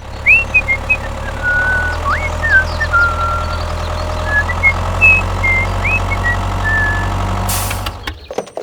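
A vehicle engine idling steadily, with birds chirping over it, cutting off abruptly near the end.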